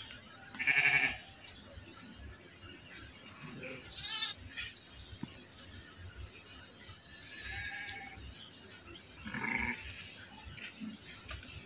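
Sheep bleating in a shed, several separate calls, the loudest about a second in and others scattered through the rest.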